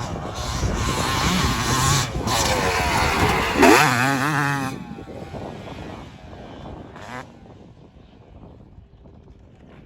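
Motocross bike engine revving hard as it passes close, its pitch climbing and dropping with the throttle. The sound cuts briefly about two seconds in and surges again nearly four seconds in, then fades away after about five seconds.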